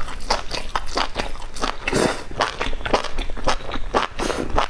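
Close-up chewing of a mouthful of enoki mushrooms, with wet, crisp clicks and crackles coming about four times a second.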